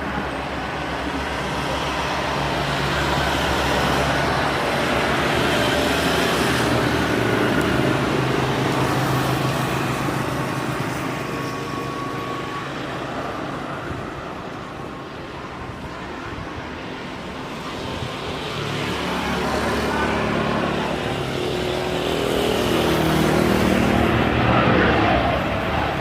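Road traffic: vehicles running past in a steady rush, growing louder twice as vehicles pass close by.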